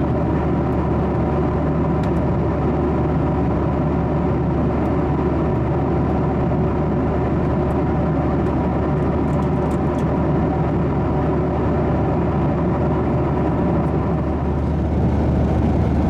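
Steady cabin noise inside a Boeing 737-900ER in flight: a constant deep rumble of its CFM56 jet engines and the airflow over the fuselage, with a faint steady hum above it.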